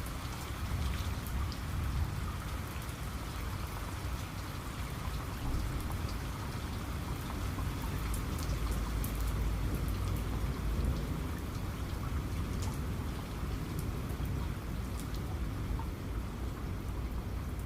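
Steady rain falling on a surface, with scattered individual drops ticking over an even hiss and a low rumble underneath.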